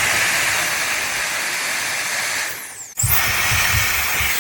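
Compact electric air duster's turbo fan running, blowing a strong, steady hiss of air with a high whine. Near three seconds in, its whine falls away as it is switched off, and it starts again right after with a rising whine.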